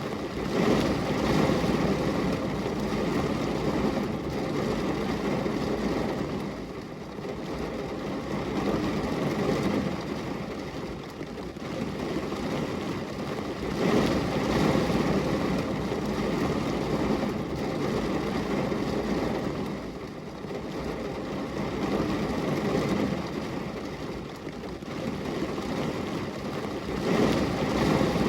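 Rain falling on a glass window: a steady, low rush of noise that swells and eases every several seconds.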